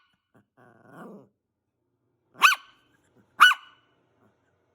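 Maltese dog barking: two sharp, high barks about a second apart past the middle, after a quieter low sound about a second in.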